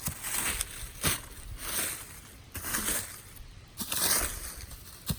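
Dry leaves, twigs and forest-floor debris crunching and scraping in irregular bursts, about one a second.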